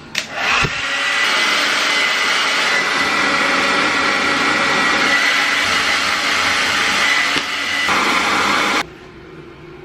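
Handheld hair dryer blowing steadily with a thin high whine, used to dry rain-soaked shoes; it dips briefly and then switches off suddenly near the end.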